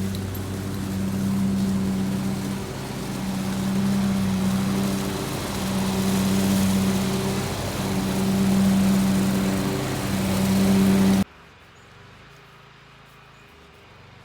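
Weed Eater electric leaf blower running: a rush of air over a steady motor hum that swells and eases every couple of seconds. It cuts off suddenly about eleven seconds in, leaving only faint background sound.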